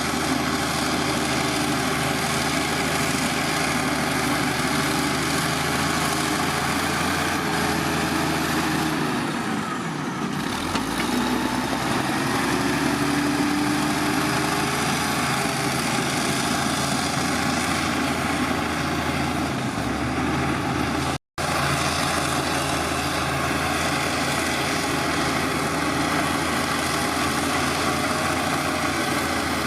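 Heavy diesel engine of earthmoving machinery running steadily, its pitch dropping and then rising again about ten seconds in. The sound breaks off for an instant about two-thirds of the way through.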